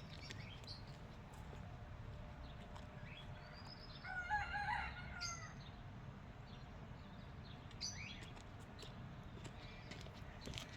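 A rooster crowing once, a single wavering call of about a second and a half starting about four seconds in, among short chirps from small birds over a low steady background rumble.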